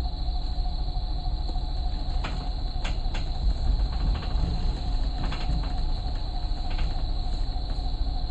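Insects buzzing steadily at a high pitch, over a low rumble, with a few sharp clicks a couple of seconds in and again later.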